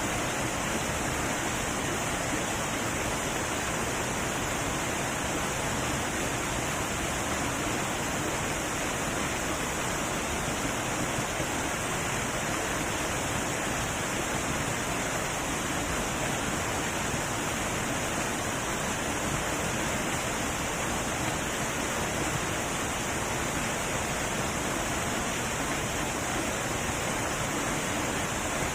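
Heavy waterfall rushing in a steady, unbroken roar of falling water.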